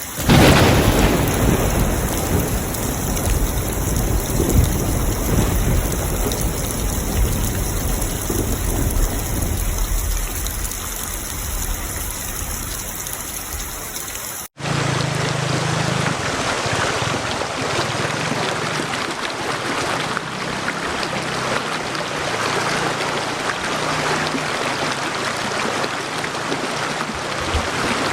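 Heavy rain falling steadily, with a thunderclap right at the start whose rumble fades over the next several seconds. About halfway the sound cuts briefly and resumes as a brighter, steadier rain hiss with less low rumble.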